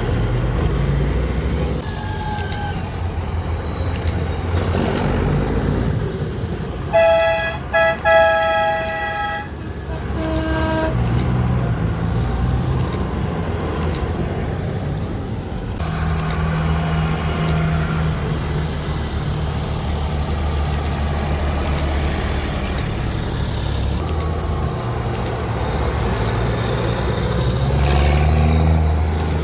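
Tractor engines running as tractors go past, with a horn blasting twice about seven seconds in, then a short toot a couple of seconds later. An engine revs up near the end.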